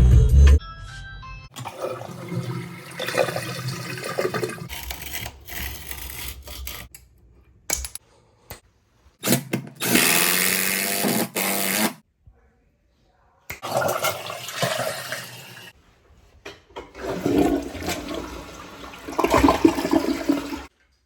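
Rushing water, like a toilet flushing or a drain running, heard in several short clips cut together. The loudest is a burst of rushing water about halfway through.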